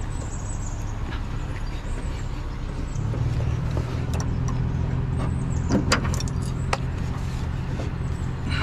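Truck engine idling with a steady low hum that gets a little louder about three seconds in, with a few sharp clicks and knocks around six seconds in.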